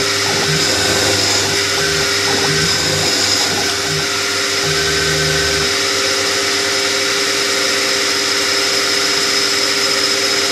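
Chester DB10 lathe running steadily with a constant whine while a 5 mm drill cuts into the workpiece.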